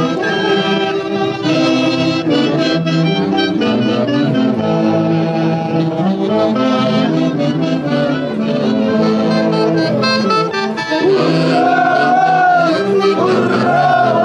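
A saxophone-led Andean festival orchestra playing a melody over a steady accompaniment, with saxophones and brass carrying the tune. About eleven seconds in, a strongly wavering vibrato line comes in on top.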